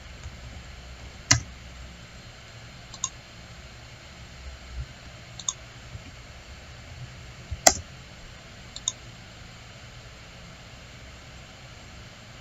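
Computer mouse clicking: about five short, sharp clicks at irregular intervals, the loudest a little past halfway, over a faint low background hum.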